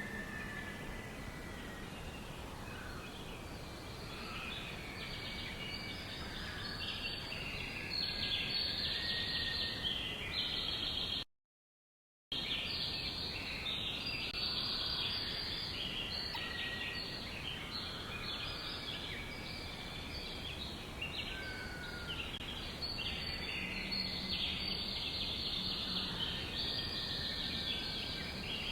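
Many small birds chirping over one another in a dense, steady chorus of short, high calls. About 11 seconds in the sound cuts out completely for about a second, then resumes.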